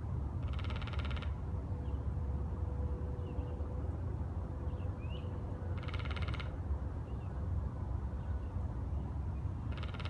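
A bird giving a harsh, buzzy, rasping call, each call lasting under a second and repeated three times at intervals of roughly four to five seconds, the last near the end.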